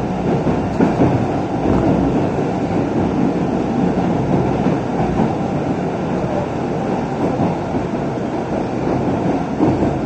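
MBTA Orange Line subway train running, heard from inside the car: a steady rumble of the train moving along the track.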